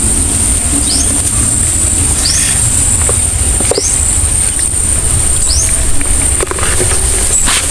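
Outdoor rural garden ambience: a steady high-pitched drone, with short rising chirps repeating about every second and a half, over a heavy low rumble.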